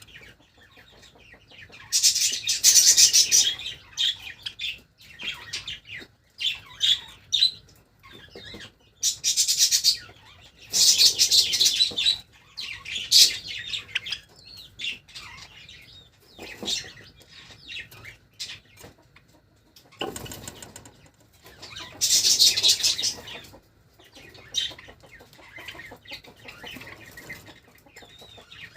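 Pet Java sparrows fluttering their wings in repeated bursts of a second or two, with short calls in between.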